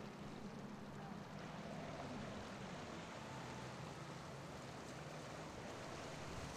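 Faint drone of a boat's engine passing through the inlet, fading after about three seconds, over a steady wash of waves and wind.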